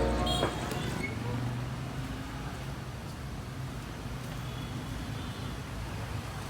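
Steady outdoor background noise with a low, even hum, like a street's distant traffic. The last notes of background music cut off in the first half second.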